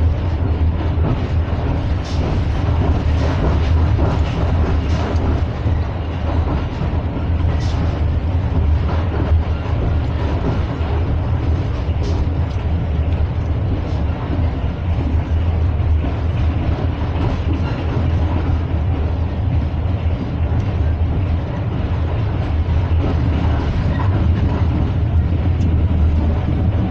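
Passenger train running, heard from inside the carriage: a steady low rumble with a few sharp clicks scattered through.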